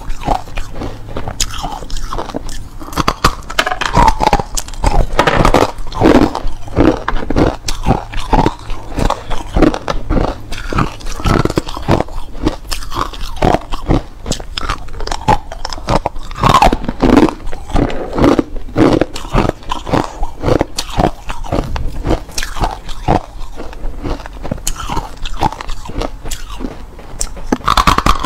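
Hard clear ice being bitten and chewed: a continuous run of sharp crunches and cracks, several a second, without pause.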